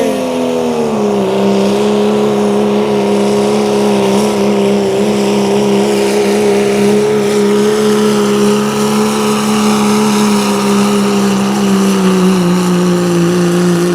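A pulling truck's engine at full throttle, dragging the weight sled down the track. The pitch settles about a second in and then holds steady and loud, easing slightly lower toward the end as the load builds.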